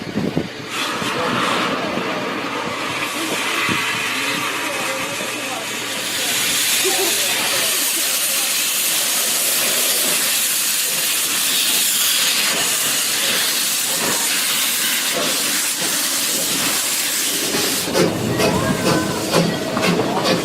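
Wood-fired steam locomotive standing and venting steam: a steady hiss that grows louder about six seconds in, with a few knocks near the end.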